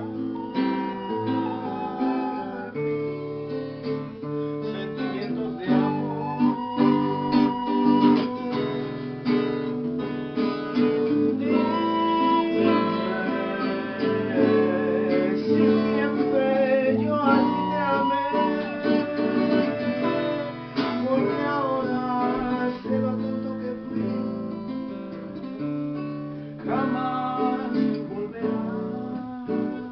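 Acoustic guitar strummed in chords, with a small wind pipe playing a held melody line over it in an instrumental break.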